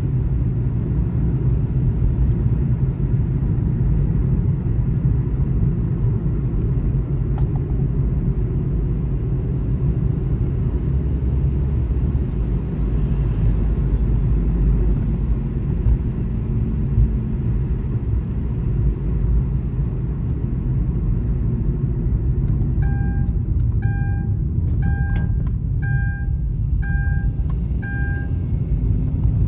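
Steady low rumble of a car driving on the highway, road and tyre noise with no change in pace. Near the end, six short electronic beeps about a second apart sound over it.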